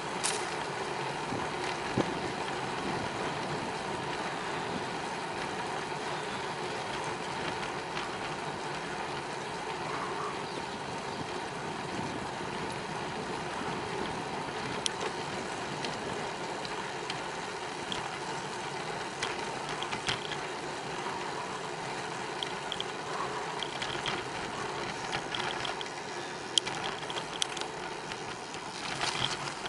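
Bicycle riding noise heard from the bike: a steady rolling hiss with scattered sharp rattling clicks, several of them close together near the end.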